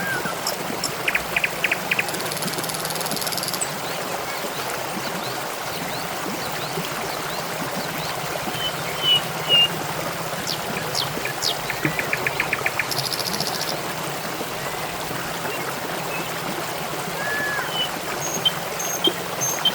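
Water trickling and splashing steadily, like a small stream. Short, high bird chirps and trills come in now and then over it.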